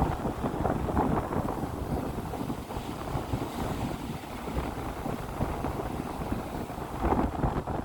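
Strong wind buffeting the microphone over waves breaking and washing up on a beach, with a louder gust about seven seconds in.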